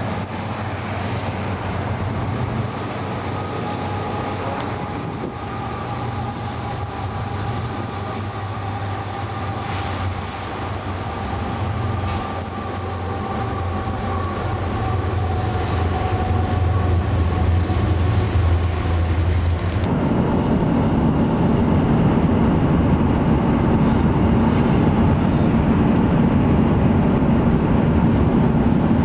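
Train running on the rails: a steady low rumble that changes abruptly about twenty seconds in to a broader, slightly louder rushing noise.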